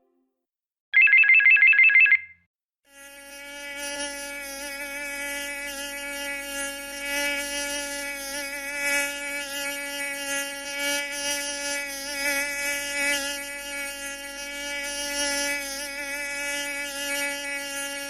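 A short, loud electronic trilling ring lasting about a second, then after a brief gap a steady insect buzz in flight that keeps going, wavering slightly in loudness.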